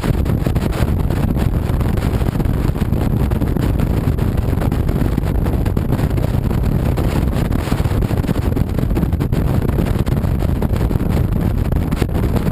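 Wind buffeting the action camera's microphone over the low, steady rumble of a 2007 Honda VTX 1300C's V-twin engine while riding.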